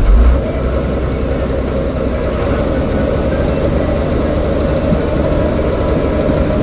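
A vehicle engine running steadily with a low rumble, louder for a moment at the start.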